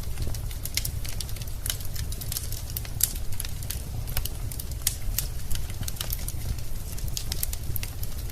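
Wood fire in a fireplace crackling, with irregular sharp pops and snaps over a steady low rumble of burning logs.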